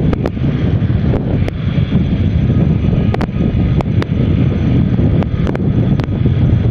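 Wind buffeting the microphone of a riding motorcycle, mixed with the steady low noise of the bike and the road, with a dozen or so sharp clicks scattered through it.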